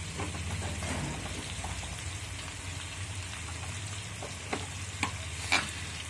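Mutton and onions frying in a karahi: a steady sizzle with a low steady hum underneath and three sharp crackles in the last two seconds.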